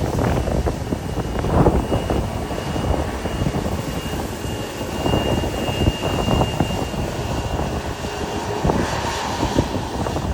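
Boeing 737 MAX jet airliner's CFM LEAP-1B engines, a steady rushing jet noise with a faint high whine in the middle.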